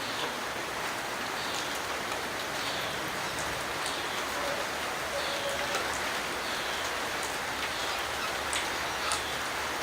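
Steady rain falling, with scattered louder drops ticking on a nearby surface, the sharpest one near the end. Faint short high bird chirps recur about once a second behind it.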